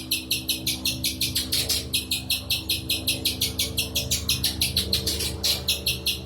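Spiderhunter calling a fast, even series of sharp chipping notes, about five a second, over a steady low hum.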